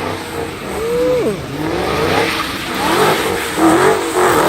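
Car engine revving hard with tires squealing, the wavering pitch rising and falling: a burnout that is wearing the tires down.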